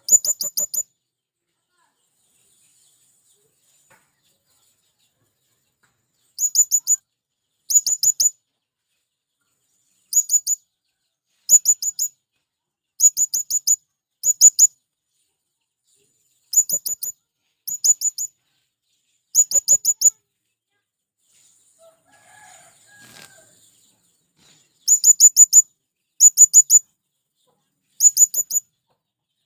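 Male blue-crowned hanging parrot (serindit) calling: short bursts of four or five very high, shrill notes, repeated every one to two seconds with brief pauses between.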